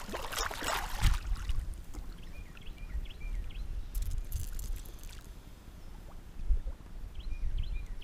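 Wind buffeting the microphone with water sloshing and splashing against a kayak, louder splashes in the first second and again around four seconds in. Short high chirps come twice in the background.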